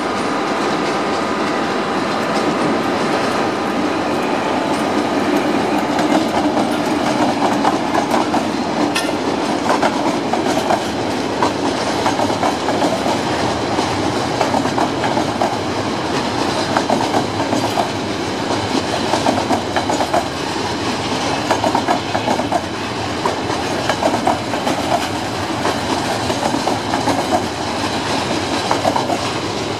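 Freight train of flat wagons carrying curtain-sided containers rolling past, wheels clattering steadily over the rail joints, with a steady metallic ring from the wheels and rails.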